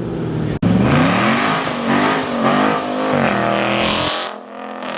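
A performance car's engine revving hard, the pitch climbing and falling several times, then quieter near the end.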